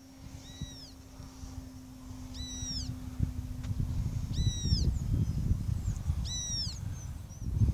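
A bird calls four times, about every two seconds, each call a short note that rises and falls in pitch. Low wind rumble on the microphone grows stronger from about halfway, and a faint steady hum stops about four seconds in.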